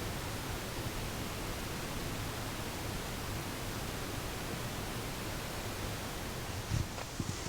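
Steady, even hiss of noise, with two or three short low thumps near the end.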